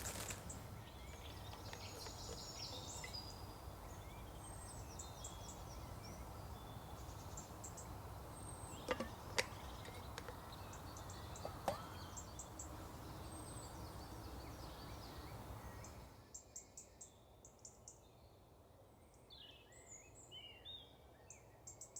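Small woodland birds chirping and calling over a steady background hiss. There are a few sharp snaps or knocks partway through. About two-thirds of the way in the hiss drops away and the birdsong stands out more clearly.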